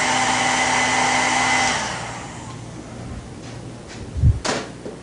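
Handheld hair blow dryer running steadily, with a steady whine, then switched off about two seconds in. A soft low knock and a sharp click follow near the end.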